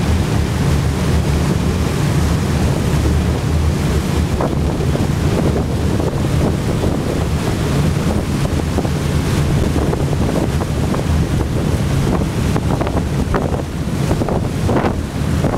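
Wind buffeting the microphone on a ship, over the ship's steady low engine drone and the rush of sea water along the hull.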